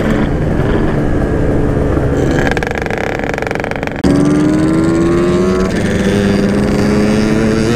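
Yamaha RX-King 135 cc two-stroke single-cylinder motorcycle engine running under way through a repacked standard-look exhaust. About four seconds in it suddenly gets louder and its note climbs steadily as the bike accelerates on the throttle.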